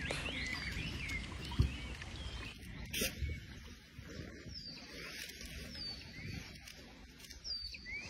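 Birds chirping, a scattered series of short calls over a faint outdoor background, with a sharp thump about a second and a half in and a click about three seconds in.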